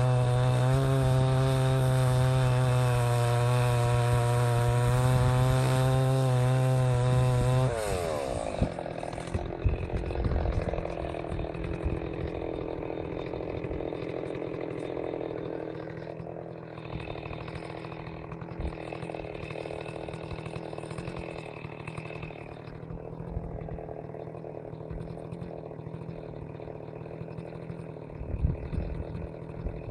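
Stihl 038 Magnum two-stroke chainsaw running at full throttle while cutting. About eight seconds in, the throttle is let off and the engine falls away to a lower, steady running note, with a few knocks later on.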